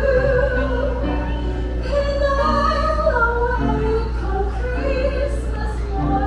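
Singing with musical accompaniment: a slow, sentimental Christmas song with long held notes.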